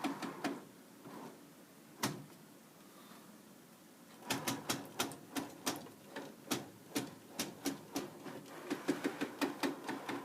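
DTG printer making a repeated clicking: a few clicks near the start, one sharp click about two seconds in, a quiet stretch, then an even run of about four to five clicks a second from about four seconds in. The clicking seems to come from the bottom belt, in time with the spin of one of its wheels, though the wheels show nothing obstructing them and the chrome rails have been cleaned.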